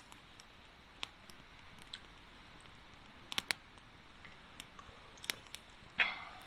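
A few faint clicks and handling sounds, then about six seconds in a short hissing crack: a drink can being opened for a toast.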